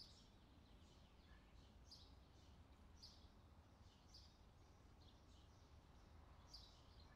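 Near silence with a faint bird chirping, short chirps repeated about once a second, over a low steady hum.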